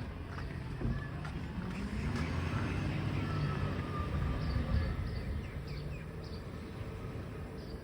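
Garbage truck engine running with a low rumble that swells over the first few seconds and then fades, with short high chirps of birds or insects above it.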